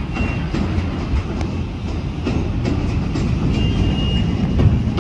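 Southeastern electric multiple-unit train rolling across a steel lattice railway bridge: a steady rumble that grows louder, with wheels clicking over rail joints. A thin high squeal is heard twice, near the start and about three and a half seconds in.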